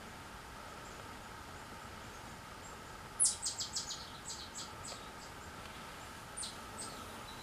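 A bird calling a quick run of short, high chirps about three seconds in, spacing out over a couple of seconds, then two more chirps near the end, over faint steady woodland background noise.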